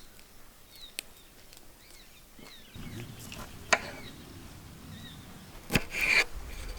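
A kitchen knife knocking on a wooden cutting board now and then, a few separate sharp knocks, with a short scraping rustle near the end.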